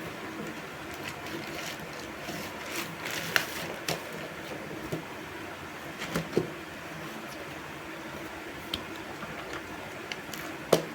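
Books and notebooks being handled during an unboxing: scattered taps, knocks and paper rustles over a steady background noise, with a sharper knock near the end.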